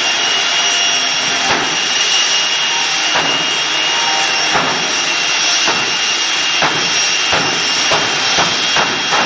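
Jet truck's jet engine running with a steady loud roar and a high steady whine, broken by sharp pops that come more often toward the end.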